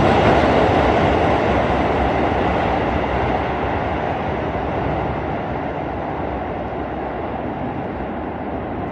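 Shibayama Railway electric train running, a steady rail noise that is loudest at first and slowly dies away over several seconds.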